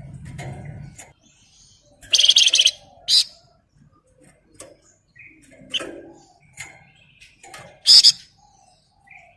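Flamboyan songbird singing in separate bursts: a loud, rapid buzzing trill about two seconds in, a sharp high note just after, softer chirps scattered through, and another loud short burst near the end. A faint low hum fades out about a second in.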